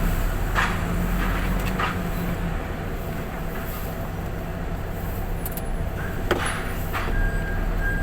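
Semi truck's diesel engine running steadily at low revs while reversing, with a few sharp clicks. Near the end a reversing beeper starts up, beeping repeatedly.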